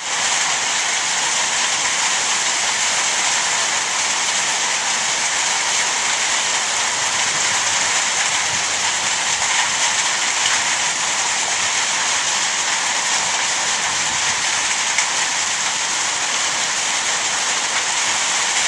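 Heavy rain pouring down in a thunderstorm downpour: a dense, steady hiss that keeps an even level throughout.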